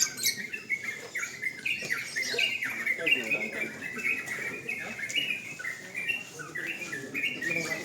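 Caged sooty-headed bulbuls (trucukan) singing: a steady run of short, quick whistled notes, each sliding in pitch, one after another.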